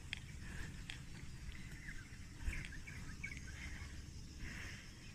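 Small birds chirping in short, scattered calls over a low steady rumble, with a single knock about two and a half seconds in.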